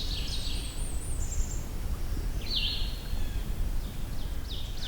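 Blackburnian warbler singing a variant song: a quick run of very high, thin notes followed by a short lower twitter. Another brief bird note comes about halfway through, over a steady low background rumble.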